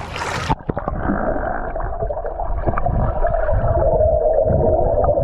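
The camera microphone goes underwater about half a second in: the splash and air sound cut off abruptly and everything turns muffled, with underwater rumbling, gurgling, scattered clicks and a steady drone that grows louder.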